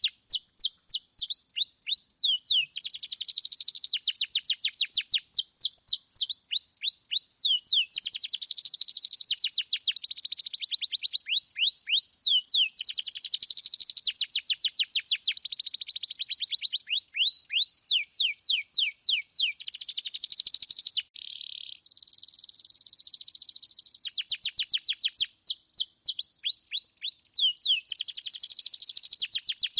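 Domestic canary singing continuously in clear, high-pitched song, with rapid rolling trills of repeated notes alternating with series of slower downward-sliding whistles. The song pauses briefly about two-thirds of the way through, then resumes.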